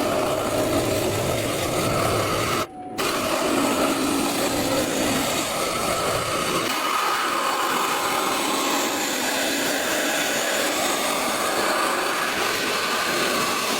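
Wood lathe spinning while a turning tool cuts into the wood: a steady, dense rushing and scraping noise, broken by a brief gap about three seconds in.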